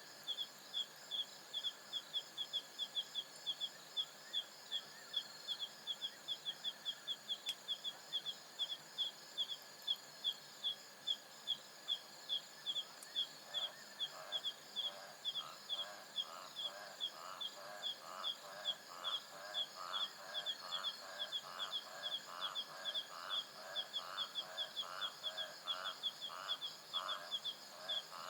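African savanna night chorus: steady high insect trilling under a sharp high chirp repeated about three to four times a second. About halfway through, a lower pulsing call joins in, repeating about twice a second.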